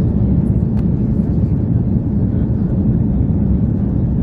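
Jet aircraft engines giving a steady low rumble, with little high-pitched content.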